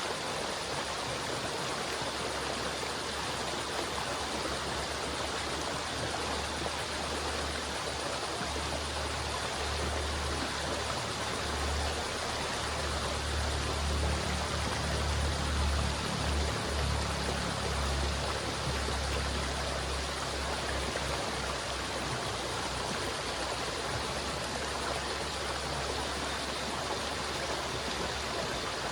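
River water flowing steadily, a continuous rushing with a low rumble that swells in the middle and fades again.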